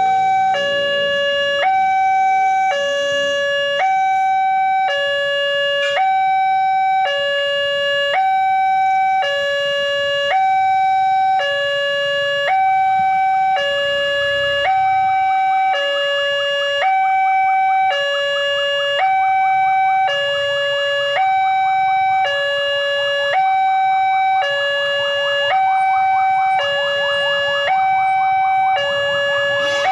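Railway level-crossing warning alarm sounding a repeating two-tone electronic chime, a higher and a lower tone alternating about once a second, the warning that a train is approaching. A rushing noise builds beneath it in the last few seconds.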